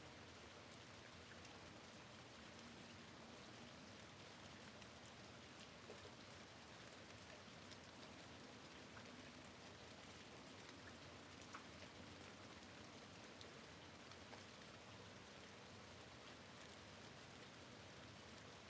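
Faint, steady rain at a window, with scattered single drops ticking now and then.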